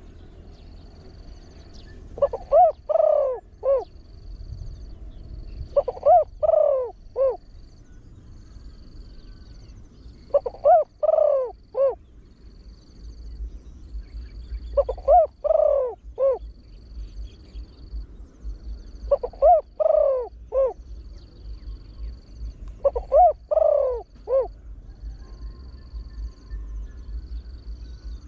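A deep-voiced spotted dove cooing. It gives a short phrase of several coo notes, repeated six times about four seconds apart.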